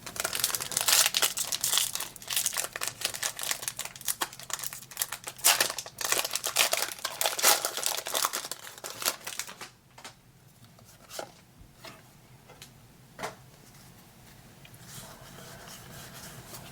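Foil wrapper of a Pokémon trading card booster pack crinkling and being torn open by hand, with dense crackling for about ten seconds. After that come fainter, scattered rustles and a few sharp clicks as the handling slows.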